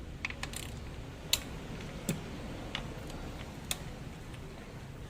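Light, scattered clicks and taps from metal tools or parts being handled, about six in five seconds, over a steady low hum.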